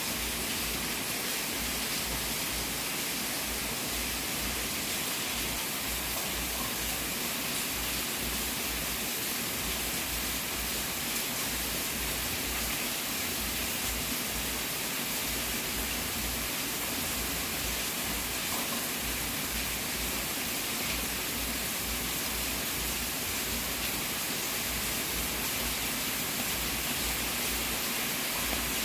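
Fire burning in a fireplace, heard as a steady, even hissing noise with no distinct crackles standing out.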